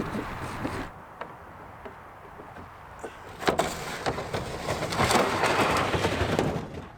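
Handling noises of outdoor gear: a sharp knock about three and a half seconds in, then a stretch of scraping and rustling.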